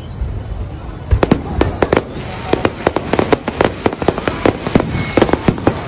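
Fireworks display: a rapid, irregular string of sharp bangs and crackles from aerial shells bursting overhead, getting denser about a second in.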